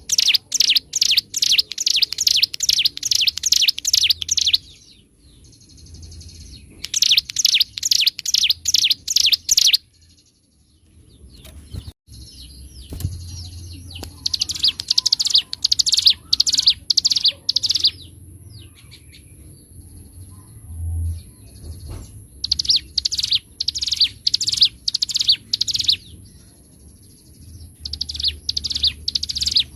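Ciblek gunung (a prinia) singing in fast rattling bursts of repeated sharp high notes, five bursts of a few seconds each with short pauses between. A faint steady high tone runs underneath.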